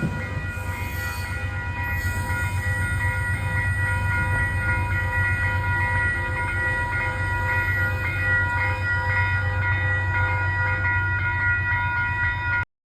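Train at close range, with a steady low rumble and a steady high-pitched whine held the whole time; the sound cuts off abruptly near the end.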